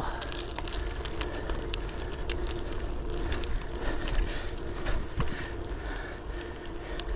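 Folding bicycle rolling along a paved path, with scattered small clicks and rattles from the bike over the surface. Wind rumbles steadily on the camera microphone.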